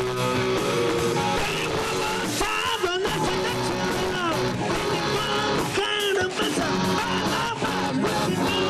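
Live rock band playing loud, guitar-driven punk rock, with shouted singing over it.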